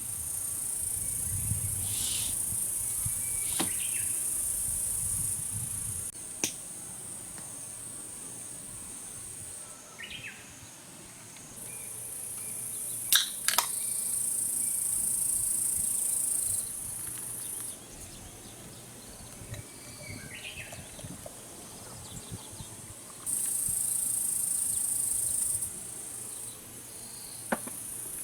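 Insects in a high, steady buzzing chorus that stops and starts in blocks of several seconds. A few sharp clicks and faint short chirps come in between.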